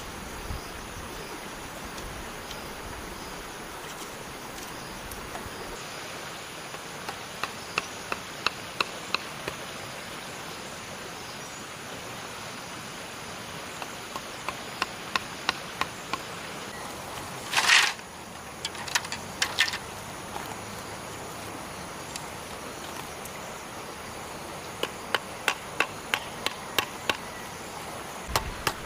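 A tool striking bamboo in quick runs of sharp knocks, a few a second, three runs of about six to nine strikes each, with a longer, louder burst in the middle. A steady hiss lies underneath throughout.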